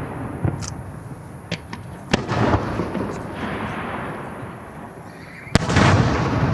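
Aerial fireworks shells bursting in the sky: a few small pops, a sharp bang about two seconds in, and the loudest bang near the end, each followed by a long rumbling echo.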